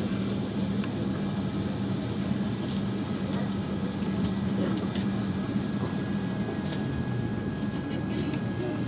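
Steady airliner cabin hum with a low drone and a few faint clicks, from the Boeing 787-8's air-conditioning and engines.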